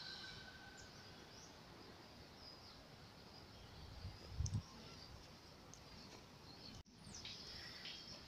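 Faint open-air background with scattered small bird chirps and short falling whistles. A brief low thump comes about four and a half seconds in, and the sound drops out for an instant about seven seconds in.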